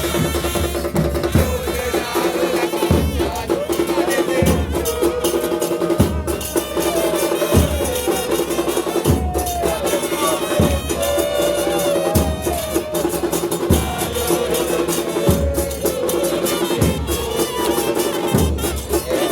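Football supporters' band playing bombo bass drums in a steady rhythm, a heavy beat about every second and a half, with fans chanting along.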